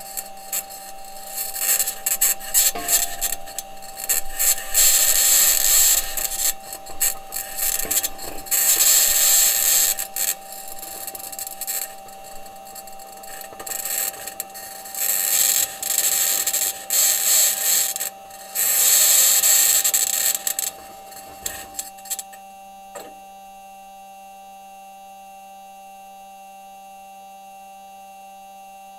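Perseverance Mars rover driving: its metal wheels and suspension grind and scrape over rock in repeated loud bursts, over a steady high-pitched scraping whine. About 22 seconds in, the grinding stops and only the steady whine is left.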